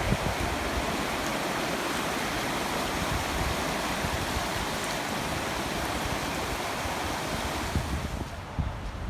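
Floodwater rushing in a steady roar, which fades away about eight seconds in, leaving wind buffeting the microphone.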